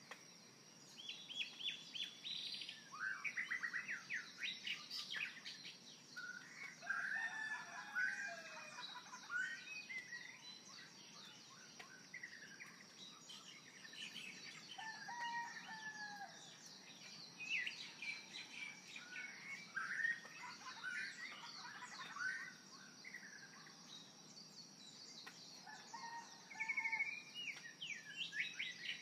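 Birds chirping and singing, many short overlapping calls and trills, over a steady high-pitched hiss.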